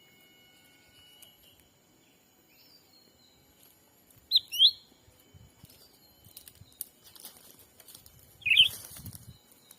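A small bird calling: two sharp, quick sweeping chirps about four and a half seconds in and another near the end. Scattered light rustling and ticking, like movement in undergrowth, runs through the second half.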